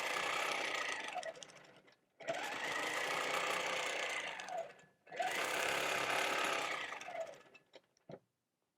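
Longarm quilting machine stitching in three runs of about two and a half seconds each, its motor speeding up at the start of each run and winding down at the end, with short stops between.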